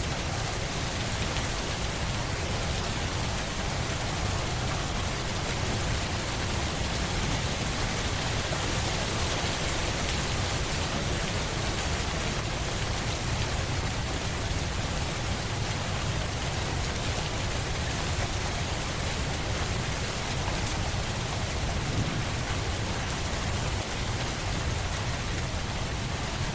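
Steady rain falling, an even hiss of drops on a surface, without pause or change.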